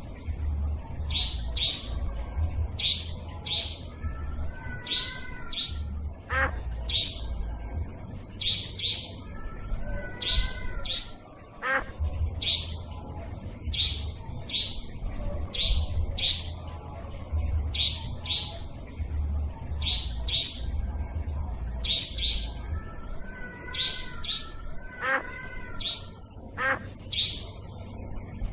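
Nightjar (cabak) calling on a looped bird-lure recording: sharp high-pitched notes repeated every second or so, often in pairs or threes, over a low rumble. A lower warbling call comes in a few times.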